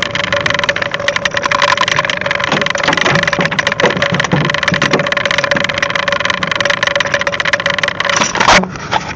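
Fishing boat's engine running, with a steady hum under loud rushing wind and water noise full of crackles, and a brief louder rush near the end.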